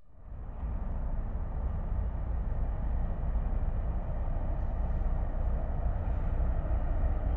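Steady low rumble of a freight train on the tracks, fading in over the first second.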